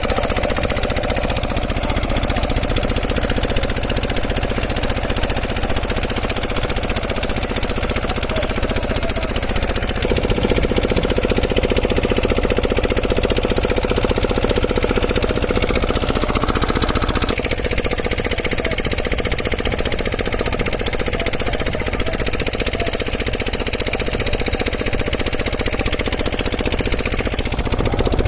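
An engine running steadily with a rapid, even clatter. Its note shifts about ten seconds in and again about halfway through.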